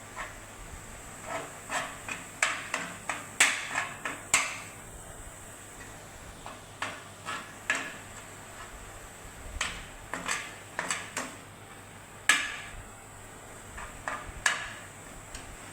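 Irregular clinks and knocks of kitchenware, a utensil striking a dish or pan while fish is mixed with ginger garlic paste, some in quick clusters.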